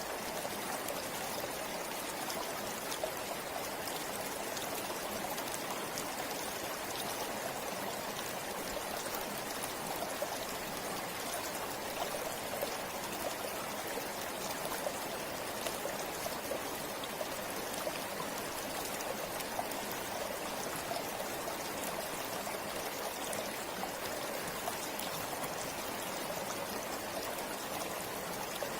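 River water flowing steadily over stones, with a constant rush and many small splashes and trickles.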